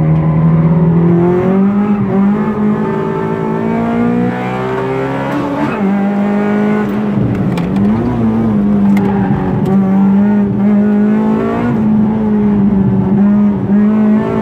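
Honda Civic's VTEC four-cylinder engine heard from inside the cabin, pulling at high revs on track. Its note holds high, with a brief dip and climb in pitch about seven seconds in.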